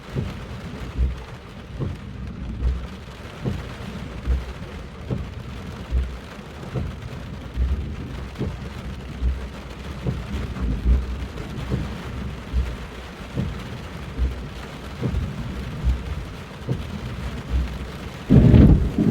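Heavy thunderstorm rain, with frequent dull low thumps at irregular intervals. A loud, sudden thunderclap bursts in near the end.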